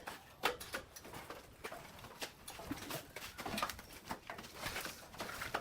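Irregular light clicks, taps and knocks, several a second, of hand tools and small parts being handled during work on the jet ski.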